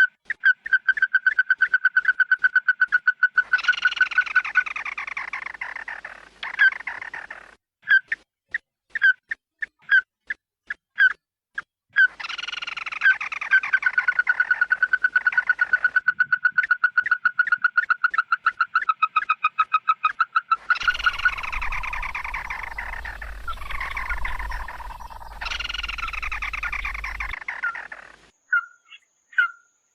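Calls of the bird sold as 'chim mắt đỏ' (red-eyed bird), played as a flock-luring recording: fast runs of short, loud notes on one pitch, about six a second, broken by harsh calls that fall in pitch. A low rumble sits under the calls for several seconds about two-thirds of the way in.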